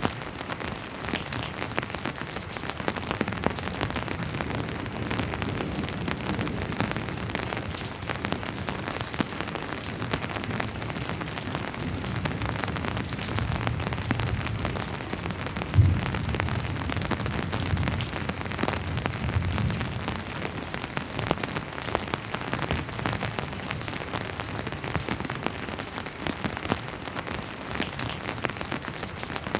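Steady rain falling on a surface, individual drops ticking through the hiss. About halfway through, a low rumble of distant thunder swells for several seconds, with one sharper jolt in the middle of it.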